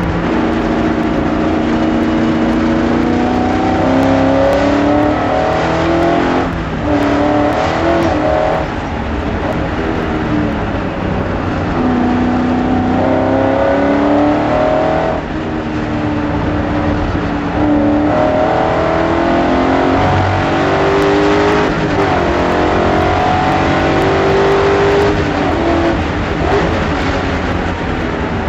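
BMW S62 5-litre V8 in an E30 race car under hard acceleration, its note climbing through the revs again and again and dropping back at each gear change or lift for a corner.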